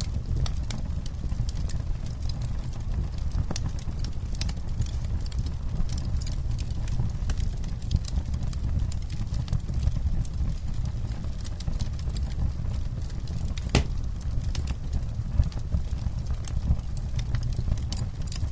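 Campfire burning: a steady low rumble of flames with frequent small crackles and pops of burning wood, and one sharper pop about three-quarters of the way through.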